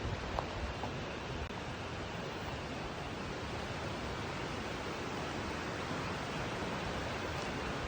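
Steady rushing outdoor noise, even and unbroken, with a couple of faint clicks about half a second in.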